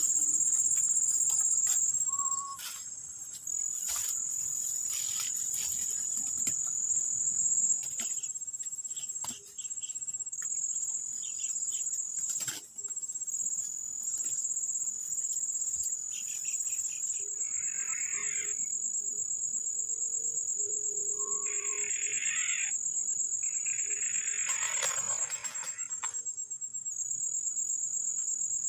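Insects chirring steadily at a high pitch, with a few short scratchy sounds in the second half.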